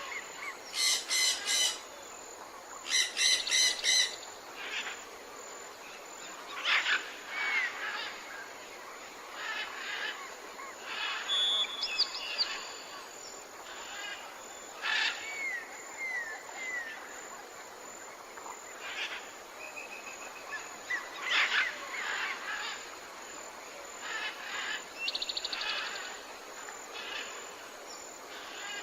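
Forest birds calling: loud, harsh, rapidly pulsed calls in the first few seconds, then scattered chirps, short gliding whistles and a brief trill over a steady hiss.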